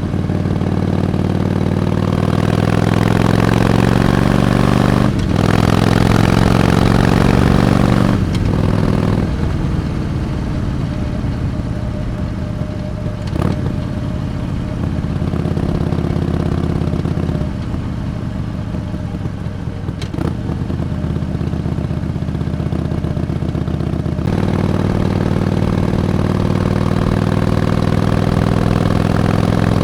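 Harley-Davidson Iron 883's air-cooled V-twin engine running under way: its note rises as it accelerates over the first few seconds, with short breaks in the sound about five and eight seconds in as it changes gear, then runs more evenly with further brief breaks later.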